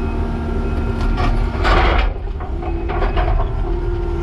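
Skid steer's diesel engine running under load while its tooth bucket works broken concrete slab, with a loud scrape and crunch of concrete a little under two seconds in and smaller knocks around it. A steady hydraulic whine sets in after the crunch.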